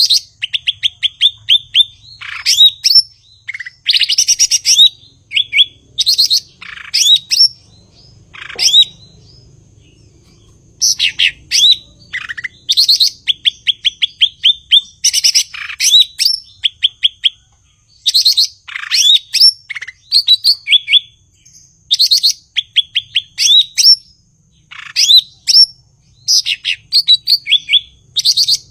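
Cucak ijo (green leafbird) singing in a sustained, energetic 'gacor' bout: rapid phrases of quick, high chattering notes, each run of notes falling slightly, repeated back to back with a brief lull about a third of the way through. A faint low hum and a thin steady high tone sit underneath.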